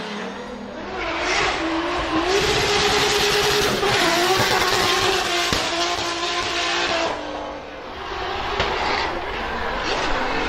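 Drift car engine held at high revs with tyres squealing through a slide. The revs dip briefly about seven seconds in, then pick up again.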